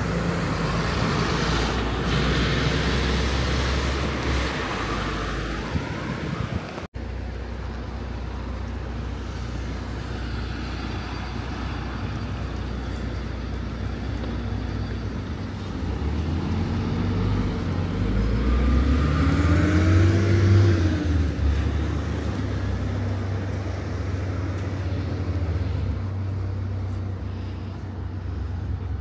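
Street traffic rumble with a tram's electric traction motors whining in a glide that rises in pitch, peaks and falls away about two-thirds of the way through, as the tram moves off. The sound drops out briefly about seven seconds in.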